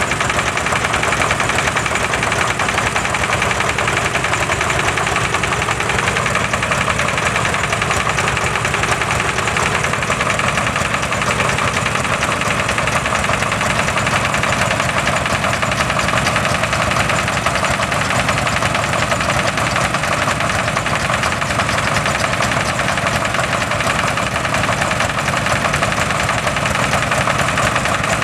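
Vintage stationary diesel engines running steadily at idle, with a fast, even knocking beat.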